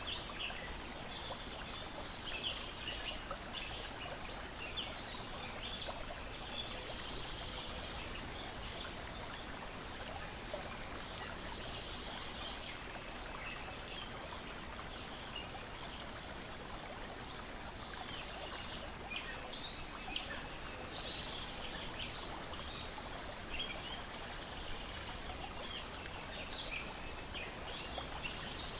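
Lake water lapping and splashing in a steady wash, with many small birds chirping and singing throughout.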